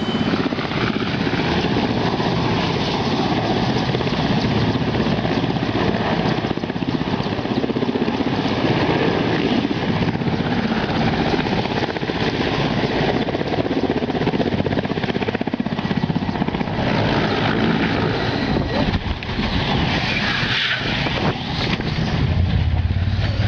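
Helicopter in flight, its rotor and engine running loudly and steadily with a fast beating of the blades.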